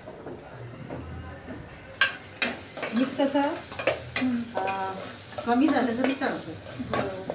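Stovetop cooking sounds: frying sizzles under clinks and scrapes of steel utensils, with two sharp clinks about two seconds in.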